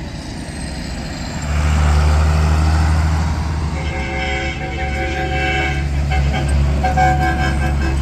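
Farm tractor engines running as they pass, with a horn blown about halfway through: one long blast, then shorter toots.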